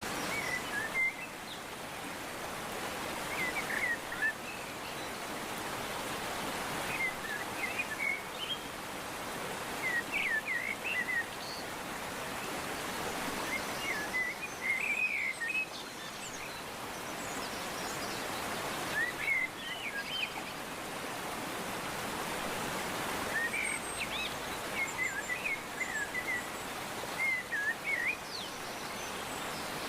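Steady rushing of a waterfall, with birds chirping in short repeated phrases over it every few seconds.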